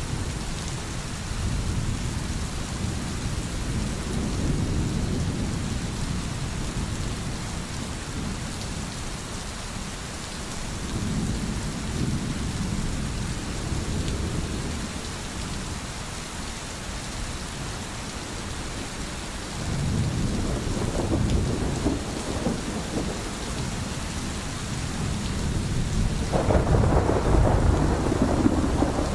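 Steady heavy rain with thunder rumbling low in the background, swelling and fading every few seconds. A louder, longer rumble rolls in near the end.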